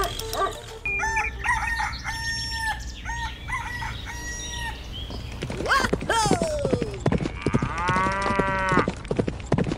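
Rooster crowing once, a long call in the second half, after a run of short repeated clucks.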